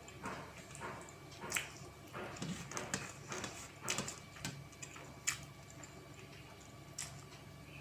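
Close-up eating sounds: irregular wet mouth clicks and soft smacks while chewing, a few sharper smacks along the way.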